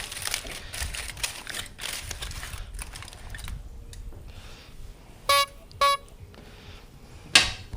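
A utensil clinking and scraping on a cast iron pan as halibut is served from it, then two short beeps half a second apart and a single sharp knock near the end.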